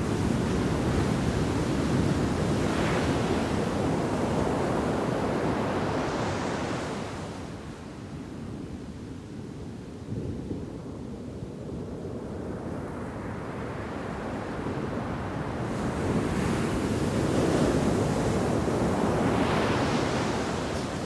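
Ocean surf crashing in a heavy shore break, in two long surges: one wave breaking and washing up at the start, then a quieter lull before the next wave builds and crashes near the end. Wind buffets the microphone throughout.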